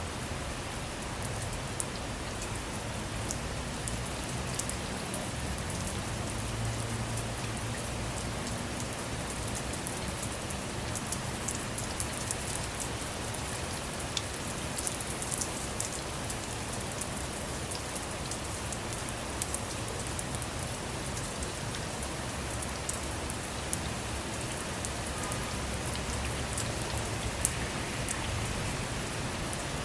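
Steady rain falling on a car, an even wash of noise with many sharp drop ticks and a few louder single hits.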